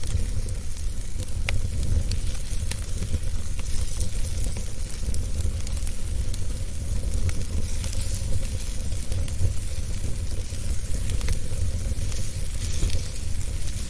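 Wood fire burning in a fireplace: a steady low rumble and hiss with frequent small crackles and pops throughout.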